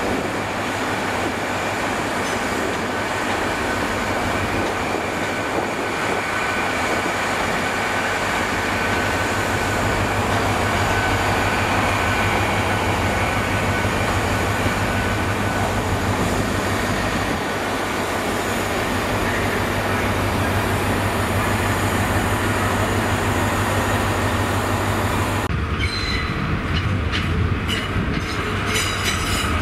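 Hitachi Class 800 train running slowly past, a steady rumble with a thin high whine. About 25 seconds in this gives way to a run of sharp clicks of wheels over rail joints and points.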